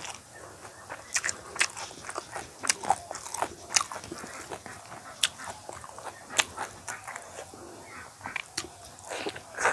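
Eating sounds of a mouthful of rice with curry and chicken: wet chewing and biting, with many short sharp smacking clicks at irregular moments.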